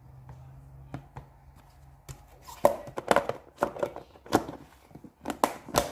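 Calamansi fruits and a plastic food container being handled: a run of sharp, irregular knocks and clicks starting about two and a half seconds in, after a faint low hum.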